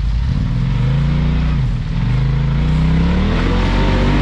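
Off-road vehicle engine revving hard in surges, climbing in pitch, dipping briefly about two seconds in, then rising again.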